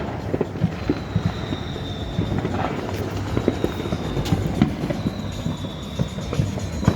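Fireworks popping and crackling in quick irregular bursts over a low rumble, with a thin high whistle that slides slightly downward, twice.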